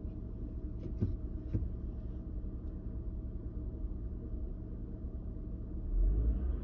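2000 Honda Odyssey's 3.5-litre V6 idling rough, with a few light clicks about a second in and a louder low surge near the end.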